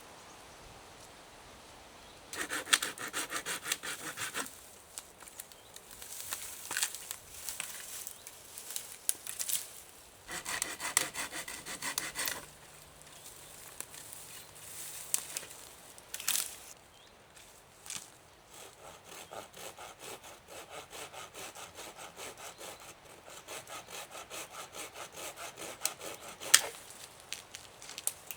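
Hand saw cutting through wood in three bouts of rhythmic back-and-forth strokes, the last and longest at about three strokes a second, with a sharp knock near the end.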